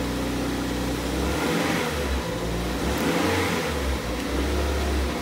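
Toyota MR2 Spyder's engine idling, heard from inside the cabin, with the sequential manual transmission held in first gear during a TCU relearn. The low hum wavers unevenly for a couple of seconds in the middle, then steadies.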